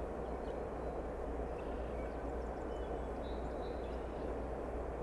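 Steady low rumble of an approaching CN diesel freight locomotive, still some way off, with no horn. A few faint bird chirps come through in the middle.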